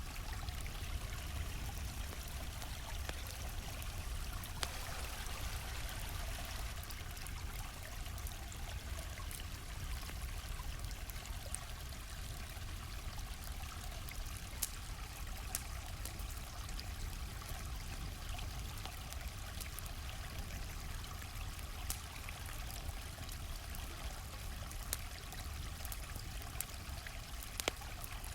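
A stream flowing steadily, with scattered sharp crackles and pops from a burning campfire over it.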